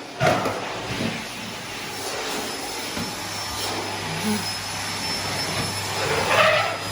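Vacuum cleaner running steadily with a thin high whine, a low hum joining about halfway, and a brief louder sound near the start and again near the end.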